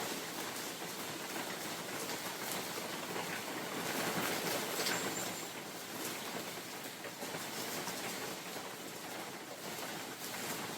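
Rain falling in a spring forest with wind, a dense even hiss dotted with the ticks of individual drops; the hiss swells briefly about four seconds in.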